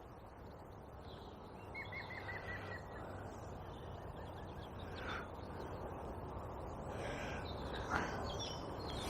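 Birds calling in the dawn quiet. A small bird gives a quick trill of short chirps about two seconds in, and a few brief harsh calls follow around the middle and near the end, over a steady low outdoor background.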